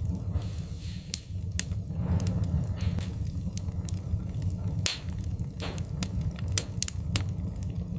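Wood fire crackling in a fireplace: irregular sharp pops and snaps over a steady low rumble of the flames, with a few brief hissing rushes.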